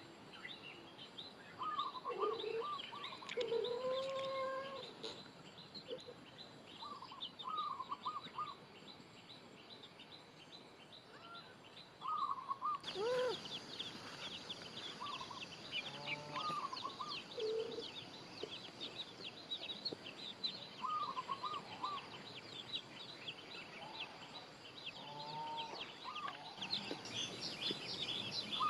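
Outdoor rural ambience: a dense, fast high chirping runs throughout, with short animal or bird calls scattered through it, several in quick groups of three.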